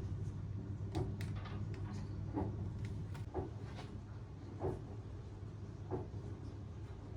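Kitchen work: light knocks and clicks of utensils, dishes or cupboard doors, spaced unevenly, over a steady low hum.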